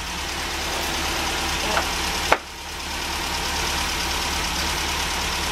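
A steady mechanical drone, some motor or machine running with an even low hum. There is a sharp click a little over two seconds in, after which the sound drops and then builds back up.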